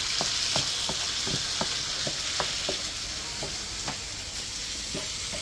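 Chunks of fish frying with onion and red bell pepper in a nonstick pan, sizzling steadily, while a wooden spoon stirs and clicks against the pan a few times a second; the clicks thin out near the end.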